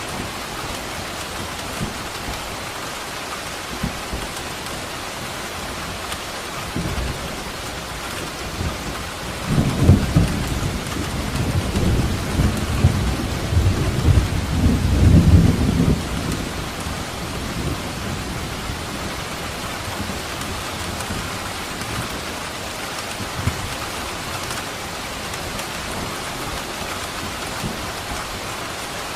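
Steady rain falling, with a roll of thunder that swells up about seven seconds in, rumbles loudest between about ten and fifteen seconds, and dies away by sixteen seconds.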